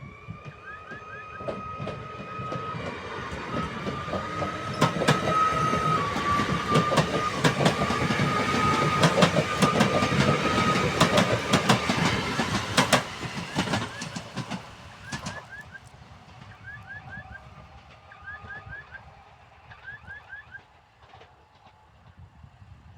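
A train passing over a level crossing, loudest in the middle, its wheels clacking over the rail joints, with a whining tone from the train. The crossing's warning bell rings in short repeated strokes, clearer as the train fades away.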